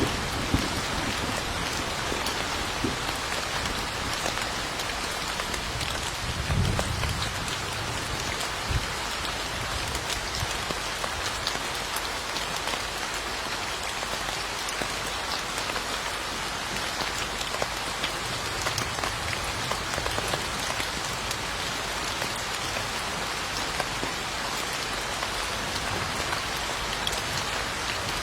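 Steady rainfall hissing evenly, with scattered individual drop ticks. A low rumble of thunder swells briefly about six to seven seconds in.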